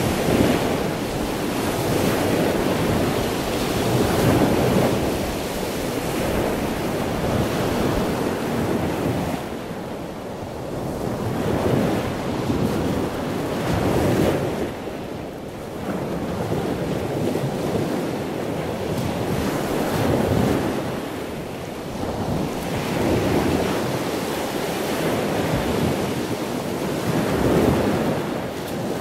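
Ocean surf washing in waves, the rush of water swelling and fading every two to three seconds, with wind.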